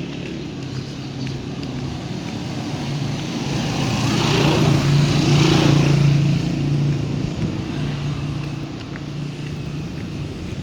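Road traffic with a steady engine hum, and a motor vehicle passing close by: its sound swells to a peak about five seconds in, then fades.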